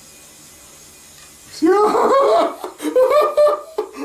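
Faint steady hum of a running electric fan, then about a second and a half in a man exclaims and bursts into loud laughter.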